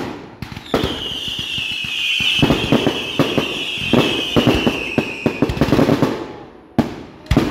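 Fireworks going off: a sharp bang, then a long whistle that falls slowly in pitch for about five seconds over dense crackling, with more bangs near the end.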